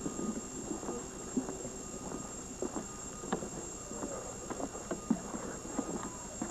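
Irregular footsteps knocking on a wooden boardwalk as several people walk along it.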